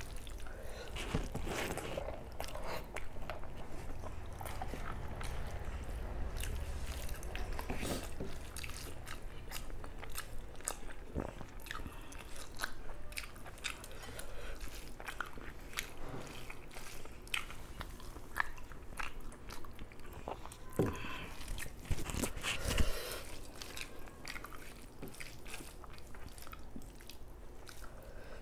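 Close-miked eating sounds: chewing mouthfuls of rice and spicy chicken curry, with irregular wet clicks and crunches, and fingers mixing rice on a banana leaf.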